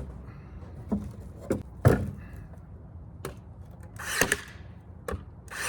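A series of sharp knocks and clacks against wooden fence slats, about seven spaced irregularly, the loudest about two seconds in.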